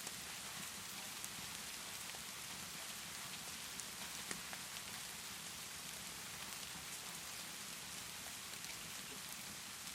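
Steady rainfall, an even hiss of rain, with a few scattered sharp crackles from a fireplace log fire.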